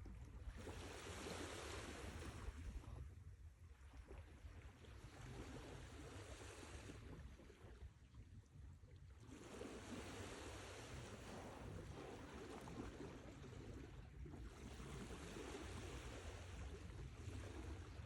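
Sea waves washing in and drawing back, swelling and fading about four times, over a steady low rumble.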